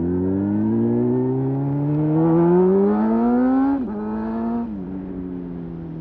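Honda CBR600RR's inline-four engine accelerating hard, its pitch climbing steadily. Then come two quick upshifts, with the revs dropping sharply about two-thirds of the way in and again a second later, before it settles at a steadier, slightly falling pitch.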